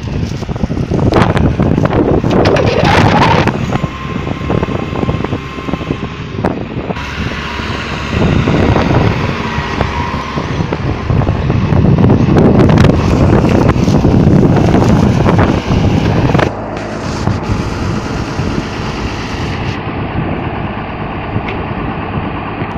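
Case tractor of about 150 hp running under load while ploughing, with wind buffeting the microphone in swells.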